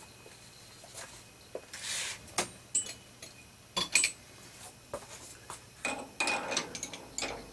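Steel lathe tooling being handled: scattered metallic clinks and knocks, the sharpest about four seconds in, with short rubbing sounds between them.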